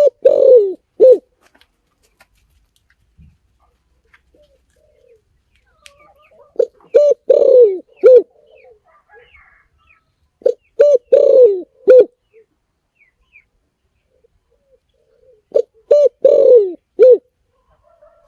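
Spotted dove cooing: a phrase of a few short coos with a longer, falling coo in the middle, repeated four times about every four to five seconds. Faint calls of other birds sound between the phrases.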